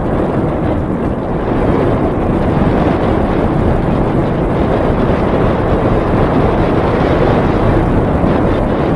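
Steady rush of wind over the microphone of a camera carried on a moving bicycle.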